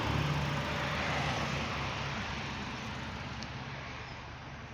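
Honda CR-V's 2.4-litre four-cylinder engine idling with a steady low hum, slowly getting fainter; a small tick about three and a half seconds in.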